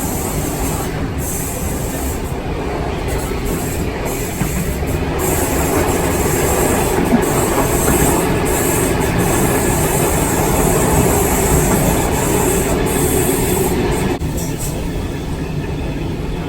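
Heritage passenger train running on the rails, a steady rumble of wheels on track. It grows louder about five seconds in and drops back suddenly near the end.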